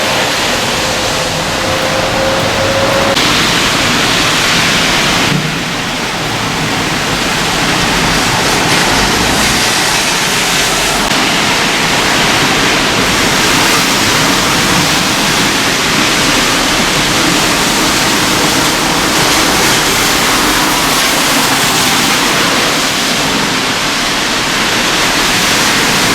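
Strong typhoon wind blowing: a loud, steady rushing noise.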